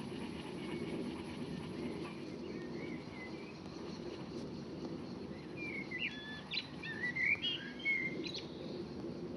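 A bird chirping: short, quick twittering notes, faint at first and strongest from about six to eight seconds in, over a steady low background rumble.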